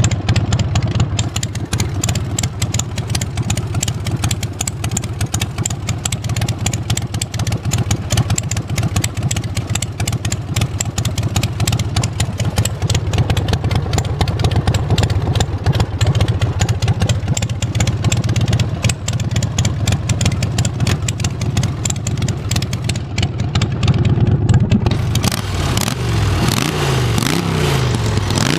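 Harley-Davidson Sportster 1200 cc V-twin engine in a pulling tractor, running loud and steady with a rapid firing beat. About 25 seconds in, the note starts rising and falling as it is revved.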